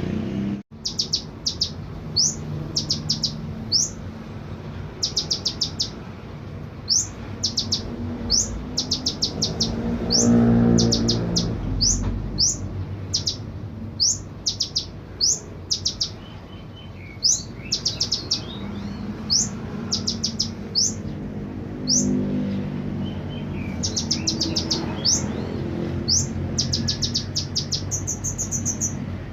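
A konin (kolibri ninja, a small sunbird) singing continuously in full voice, with quick clusters of high, sharp rattling notes and single rising whistles repeated about every second.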